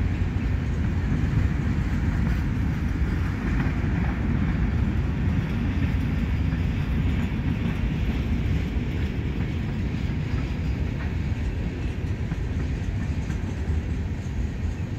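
Covered hopper cars of a phosphate freight train rolling past, their wheels on the rails making a steady rumble.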